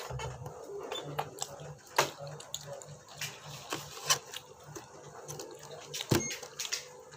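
Close-miked chewing and wet mouth sounds of a person eating sushi, with scattered sharp clicks, the loudest about two, four and six seconds in.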